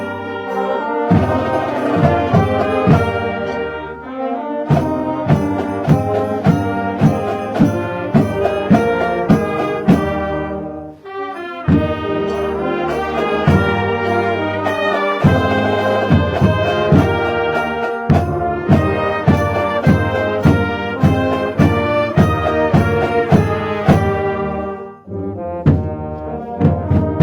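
High school marching band playing holiday music: brass (trombones and trumpets) over a steady drum beat of about two strikes a second, with brief breaks between phrases.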